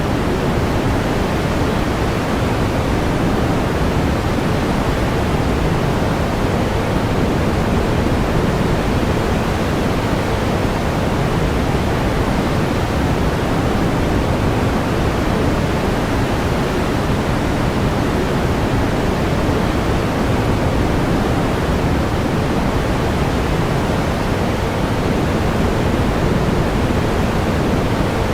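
Steady pink noise: an even hiss weighted toward the low end, unchanging in level.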